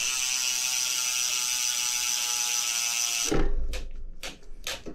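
Mountain bike rear freehub ratchet buzzing steadily as the rear wheel spins, with no brake squeal. It cuts off suddenly after about three seconds, and a few clicks and knocks follow.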